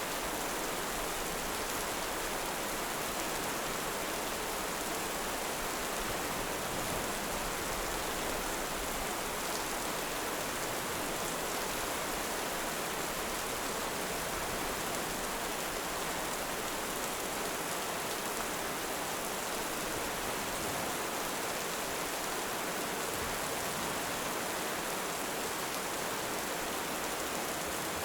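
Heavy rain falling steadily, an even hiss with no distinct drops, swells or thunderclaps.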